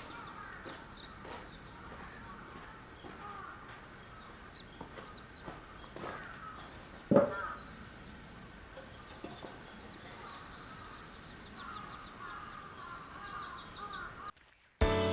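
Outdoor ambience of birds chirping and calling, with one loud, sharp call or knock about seven seconds in.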